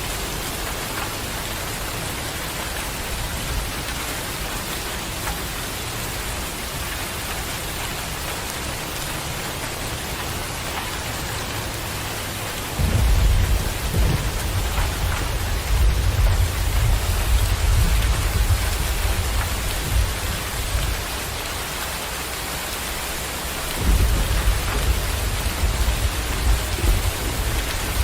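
Steady heavy rain with rolls of thunder: a long low rumble begins suddenly about halfway through and rolls on for several seconds, and a second rumble breaks in near the end.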